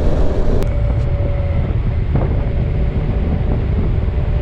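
Motorcycle riding at road speed: the engine runs steadily under heavy wind rush on the microphone.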